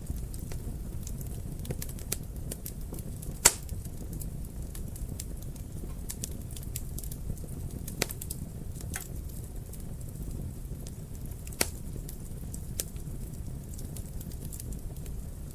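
Wood fire crackling in a fireplace: a steady low rumble of the flames under scattered small crackles, with three louder pops, the loudest about three and a half seconds in and the others around eight and twelve seconds in.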